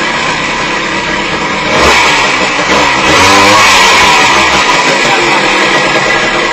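1977 Yamaha DT125's two-stroke single-cylinder engine running and being revved, swelling louder about two seconds in and again from about three to four and a half seconds.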